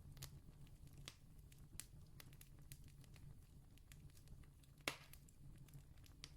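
Wood fire crackling faintly: scattered sharp pops and ticks, with one louder snap about five seconds in, over a steady low rumble.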